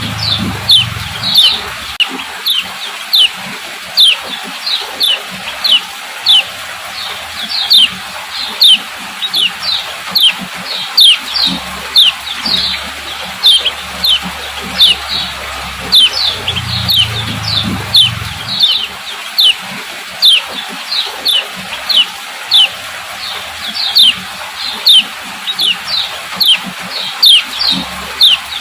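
Female common iora (kecial kuning) giving its 'ciak ciak' call: a continuous series of short, high chip notes, each sweeping downward, several a second.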